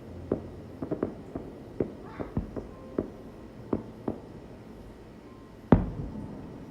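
Fireworks bursting: a run of sharp bangs over the first four seconds, then one much louder boom with a fading tail near the end.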